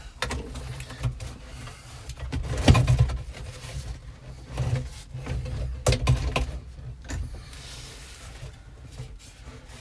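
Flexible HVAC duct hose being worked and pushed in behind a pickup truck's dashboard: irregular knocks, rustling and a few clinks, the loudest knock about three seconds in and another about six seconds in.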